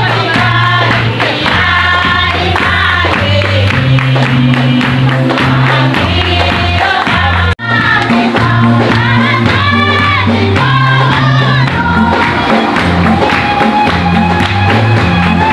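Women's choir singing a gospel praise song with rhythmic hand clapping over a steady bass line. The sound cuts out for an instant about halfway through.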